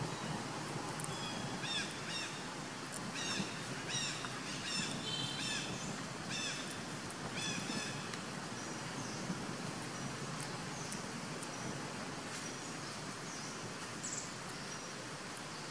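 A bird calling outdoors: a run of about eight short, arching calls over roughly seven seconds, then a few fainter calls, over steady outdoor background noise.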